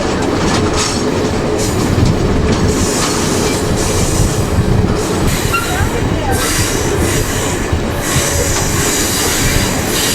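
Passenger train running on the rails, heard from on board: a steady rumble of wheels on track with occasional faint, brief wheel squeals.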